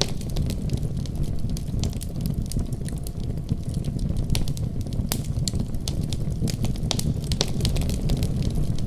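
A fireplace fire crackling: many sharp, irregular pops and snaps over a steady low rumble from the burning flames.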